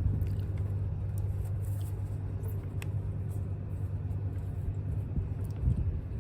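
A steady low mechanical rumble, like a small engine running evenly, with a few faint clicks; it cuts off abruptly at the very end.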